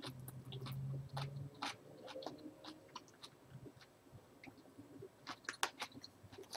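A person chewing and eating with the mouth closed: soft mouth clicks and smacks, with a brief low closed-mouth hum near the start and a small cluster of clicks about five seconds in.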